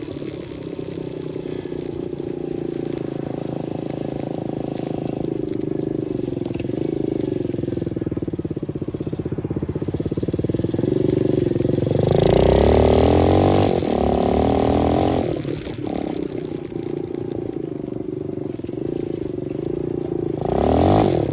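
A 125cc dirt bike engine running under way, its pitch wandering up and down. About twelve seconds in it revs harder and louder for a few seconds, and it revs up again briefly near the end.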